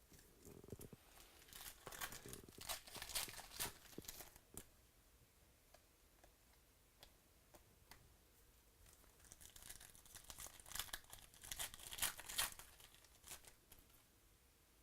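Foil trading-card packs being torn open and crinkled by hand, in two bouts of crackling, tearing wrapper noise a few seconds apart.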